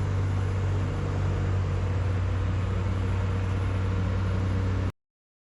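Boat engine running steadily with a low, even hum, then cut off abruptly about five seconds in as the recording ends.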